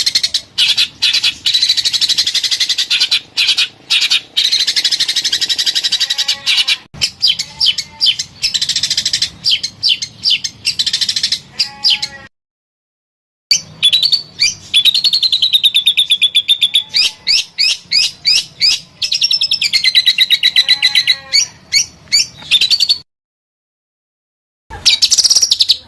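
Songbird song from a bird-training master recording: loud, rapid strings of chattering notes and wavering whistled phrases. It stops dead twice, for a second or two each time, where edited clips are joined.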